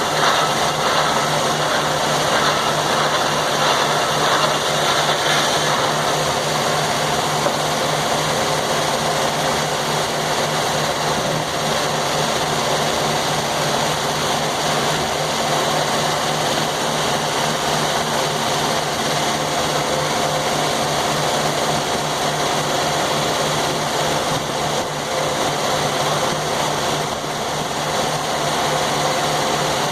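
Sawmill's engine running steadily at a constant speed, a continuous hum under a hiss of machinery.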